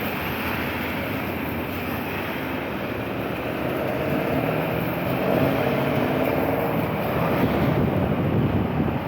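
Street traffic noise: a steady hiss with a vehicle's engine coming up, growing louder in the second half.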